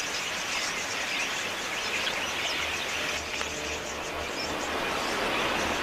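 Large flock of wild budgerigars chattering together in a dense mass of short chirps as they crowd in to drink.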